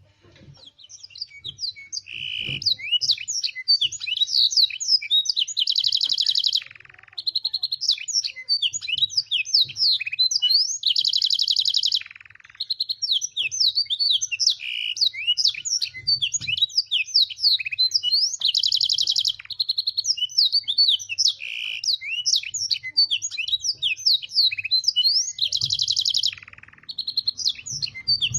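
Domestic canary singing a long, continuous song of rapid sweeping chirps, broken every few seconds by a held, rattling trill, with a few brief pauses. The canary has been trained on black-throated canary song.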